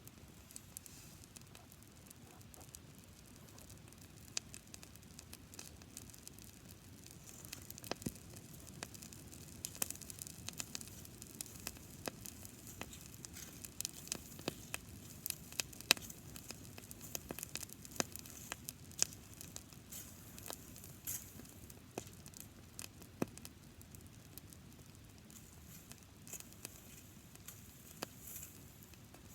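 Campfire of dried grass burning, crackling with many sharp pops over a steady hiss. The pops come thickest in the middle stretch and thin out near the end.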